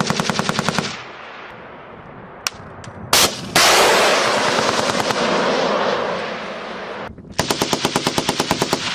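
Belt-fed machine gun firing two short bursts, rapid even strings of shots at roughly a dozen rounds a second: one at the start and one near the end. Between them a sudden loud blast of noise dies away over about three seconds.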